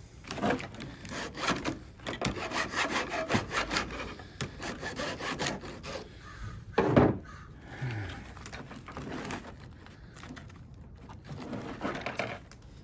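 Rough scraping and rubbing strokes on the copper windings of a welder transformer, several a second, with one loud knock about seven seconds in.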